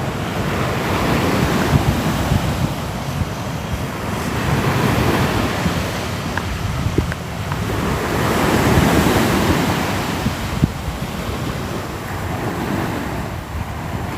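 Sea waves washing on the shore, a continuous rush that swells and eases every few seconds over a low rumble.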